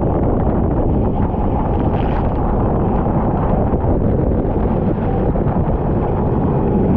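Kart engine running under way, mixed with heavy wind buffeting on the onboard microphone, as a steady loud rumble.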